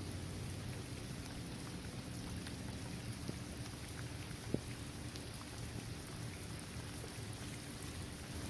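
Steady rain falling on a hard court surface, trees and grass, with scattered individual drops ticking and one sharper drop about four and a half seconds in.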